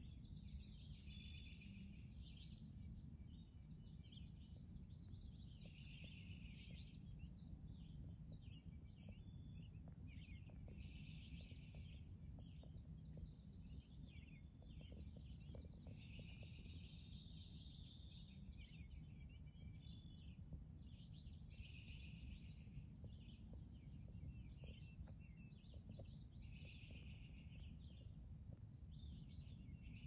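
Faint songbirds singing and chirping, one bird repeating a short falling run of notes every five or six seconds among other calls, over a steady low rumble.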